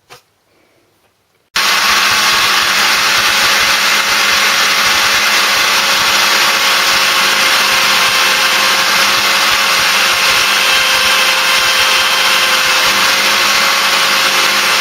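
Motor-driven wire wheel running steadily as it scrubs rust and carbon off an old Champion spark plug. It starts about a second and a half in.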